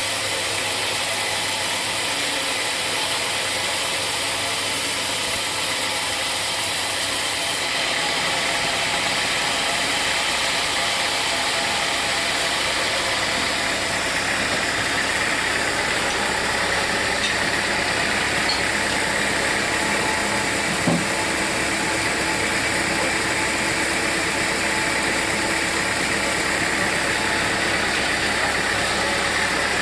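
Sawmill machinery running steadily, a continuous mechanical noise. The sound changes character abruptly about eight seconds in, and there is a single short knock about two-thirds of the way through.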